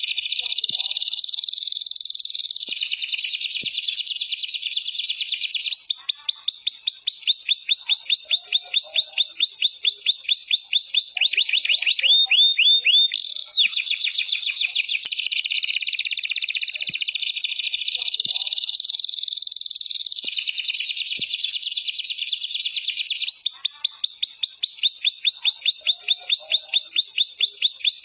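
Domestic canary singing a continuous song of rapid trills and rolls. The phrases change every few seconds, with a short lower, slower roll about twelve seconds in.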